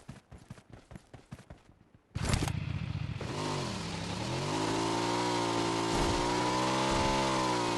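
A few light clicks, then a motorcycle engine starts suddenly about two seconds in and runs, its pitch dipping and rising again with the throttle before settling.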